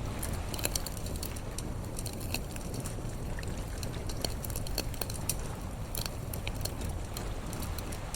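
Campfire crackling, with irregular sharp pops and snaps, over a steady low rush of sea waves.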